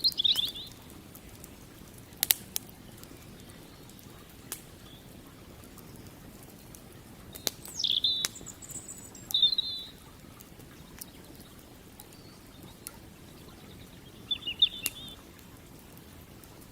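Wild birds chirping in short calls, about five times, with a few sharp pops from a crackling campfire over a faint steady background of running water.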